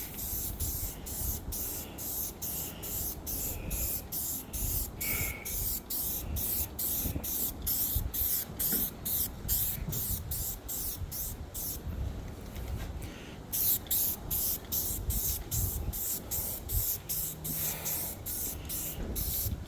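Aerosol spray-paint can hissing in short rapid bursts, about two or three a second, as paint goes onto the cutter body, with a brief pause about two-thirds of the way through.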